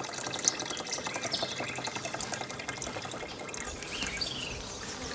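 Sugar water sloshing and trickling in an in-hive frame feeder as it is handled, with scattered light knocks and a couple of brief high chirps.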